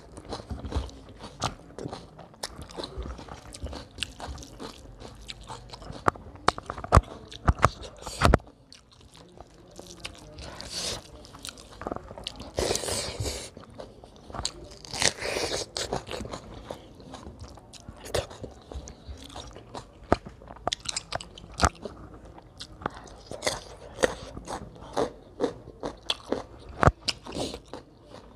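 Close-miked chewing and mouth sounds of a person eating rice and fish curry by hand: a steady run of wet clicks and smacks, with a few longer hissing mouth sounds near the middle.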